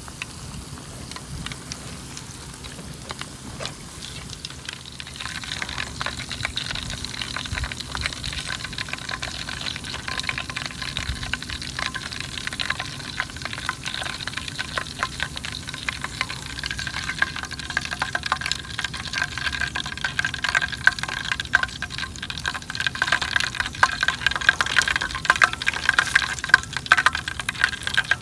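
Floured shrimp frying in hot oil: a steady sizzle thick with crackling pops. It gets louder about five seconds in and busier toward the end.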